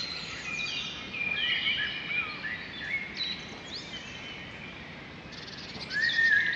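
Small songbirds chirping and twittering over a soft background hiss, many short calls and quick pitch glides. The calls thin out a little past the middle and pick up again near the end.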